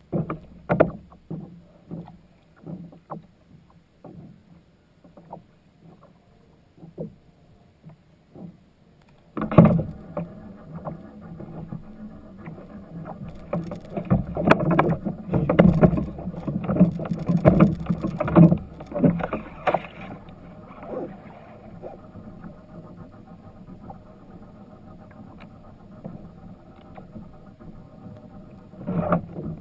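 Hull and water sounds of a fishing kayak: irregular knocks at first, then from about nine seconds in a sudden louder stretch of rushing, splashy bursts over a steady hum that eases off after about twenty seconds.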